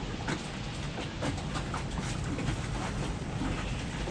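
Wind blowing across a moored sailboat, a steady rushing noise with scattered irregular clicks and knocks.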